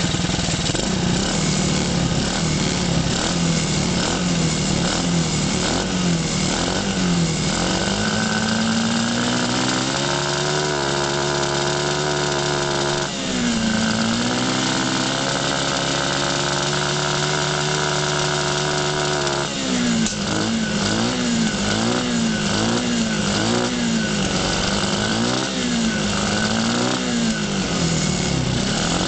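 Small automatic-clutch motorcycle engine, thought to be 110cc, running and being revved. Quick throttle blips for the first several seconds, then it is held at a steady higher speed for about ten seconds with a brief dip in the middle, then it drops back to repeated blips.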